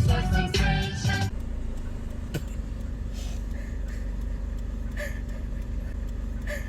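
Music with singing cuts off about a second in, leaving the steady low rumble of a car running, heard from inside the cabin.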